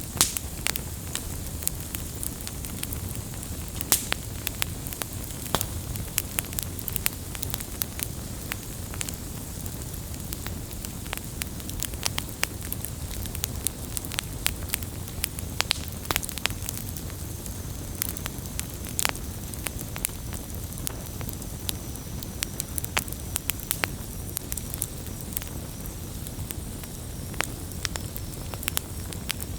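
Wood campfire burning and crackling: a steady low rush of flame with frequent sharp pops and snaps at irregular intervals.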